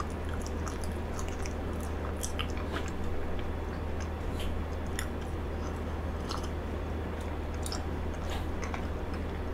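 Close-miked chewing of frozen cheesecake: soft, wet mouth clicks and smacks scattered irregularly, with no speech.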